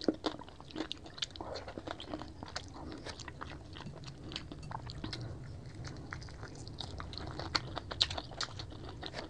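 Close-miked chewing of a mouthful of food: frequent sharp mouth clicks and smacks with some crunching, thickest about eight seconds in.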